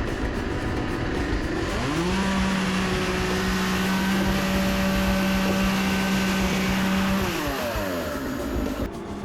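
A power tool's motor spinning up about two seconds in, running at a steady pitch for about five seconds, then winding down.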